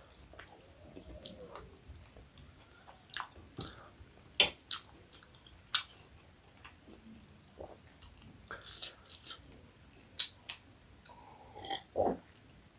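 Close-up sounds of someone eating momo dumplings in soup: chewing and wet mouth noises, broken by scattered sharp clicks and smacks.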